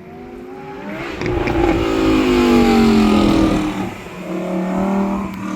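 BMW M3 Competition's engine driving by: the note swells about a second in, falls in pitch over the next couple of seconds, then settles into a steady drone.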